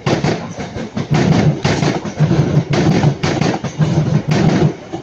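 Northern Class 323 electric multiple unit passing close, its wheels beating a loud, even rhythm over the rail joints, a heavy beat about every half second.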